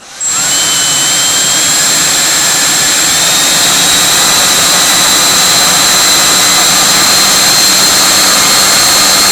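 Viper11 90 mm electric ducted fan on a StarMax 39 mm inrunner motor spinning up abruptly and running steadily with a high whine. A weird fluttery noise rides on top of it, which the owner thinks comes off the blade tips.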